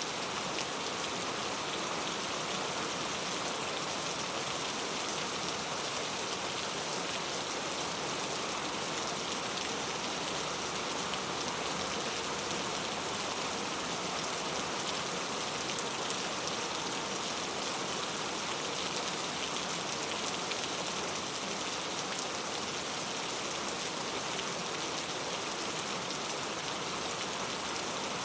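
Steady rain ambience: an even hiss of rainfall with no breaks or changes.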